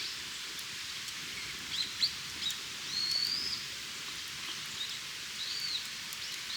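Small birds calling with short, scattered chirps, one longer warbling call about three seconds in, over a steady outdoor hiss.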